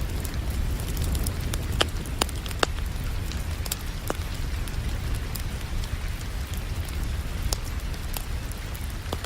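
Crackling wood fire with a few sharp pops scattered through, over steady rain and a low continuous rumble.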